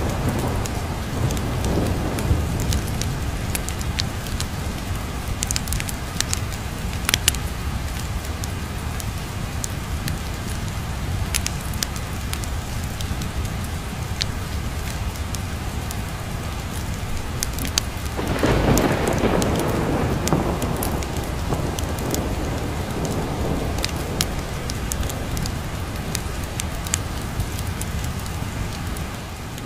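Steady rain with rolling thunder: a rumble dies away at the start, another swells up about two-thirds of the way through, and scattered sharp ticks run over the rain.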